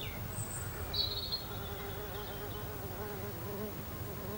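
A flying insect buzzing near the microphone, a steady wavering hum, with a few short high bird chirps in the first second or so.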